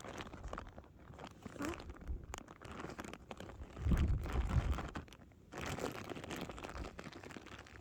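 Plastic and foil ration packaging crinkling and crackling as it is handled, with a louder low rumble about four seconds in.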